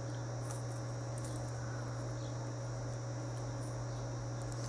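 A few faint light clicks of small metal maille rings being worked loose, over a steady low hum and a constant high-pitched whine.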